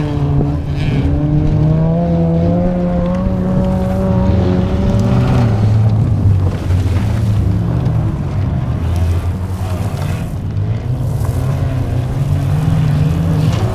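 Engines of several old wreck-race cars running hard on a dirt track, their pitch rising and falling as the drivers accelerate and lift off.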